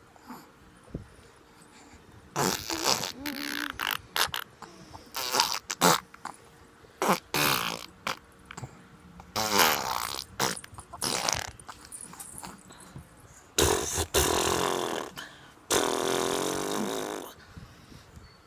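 A string of fart-like raspberry mouth sounds blown by a baby, in repeated bursts with short pauses between them. The last few bursts are longer.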